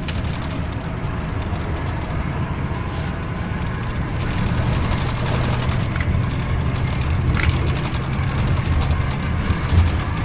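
Scania K410iB double-decker bus running, a steady low engine hum with road noise that grows a little louder about four seconds in.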